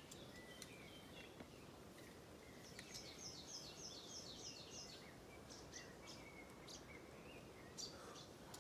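Near silence with faint birdsong: a small bird repeats a quick high chirp about eight times in the middle, three or four a second, with other scattered chirps around it.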